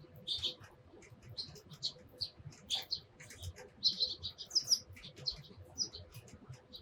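Sparrows chirping: a busy run of short, high chirps coming irregularly, several to the second.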